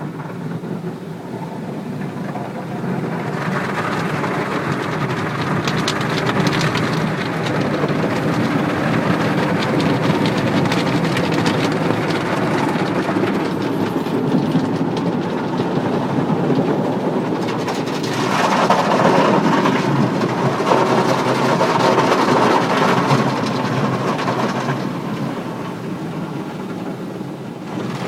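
Automatic car wash heard from inside the car: a continuous din of water spray and wash machinery drumming on the car's body. It builds over the first few seconds and changes character and gets louder about two-thirds of the way in.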